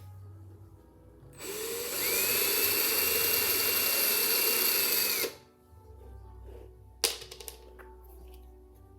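Electric drill spinning up, running steadily for about three seconds with a high whine, then winding down, while drilling holes in the toy's bottle caps and cardboard pieces. A single sharp click follows a couple of seconds later, over faint background music.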